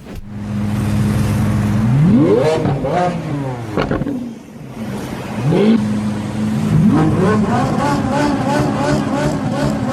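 Lamborghini engine idling, then revved hard several times, its pitch climbing and dropping with each blip, with a few sharp exhaust pops; later it is held at high revs, wavering up and down, before falling back. The revving is an attempt to make the exhaust shoot flames.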